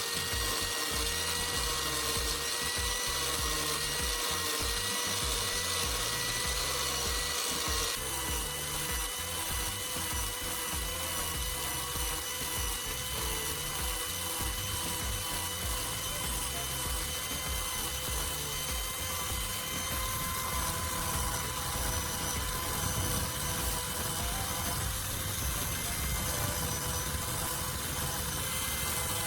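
Angle grinder running steadily with a coarse sandpaper disc, sanding rust and grime off a steel hammer head: a steady motor whine with the rasp of abrasive on metal. The high hiss drops a little about eight seconds in.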